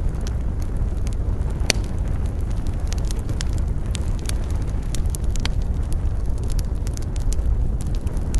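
Wood campfire crackling, with many irregular sharp pops over a steady low rumble; the loudest pop comes a little under two seconds in.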